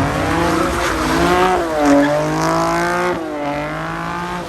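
A car engine revving hard, its pitch rising and falling several times, over a hiss of tyre noise as the car is driven hard and slides.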